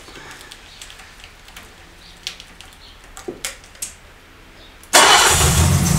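A few faint clicks, then about five seconds in the BMW E3 2800's 2.8-litre straight-six starts from cold and settles into a steady low run.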